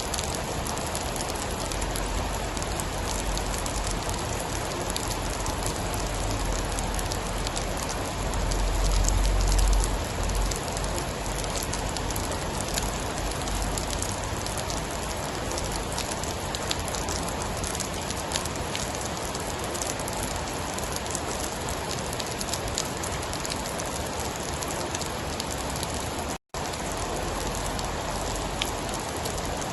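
Steady heavy rain with fine drop ticks throughout. A low rumble of thunder swells about eight seconds in and fades by ten, and near the end the sound cuts out completely for an instant.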